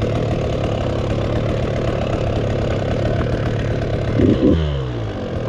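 Husqvarna 85 two-stroke dirt bike engine running at low revs with a rapid, even beat. About four seconds in, a short blip of throttle makes the revs rise, then fall back.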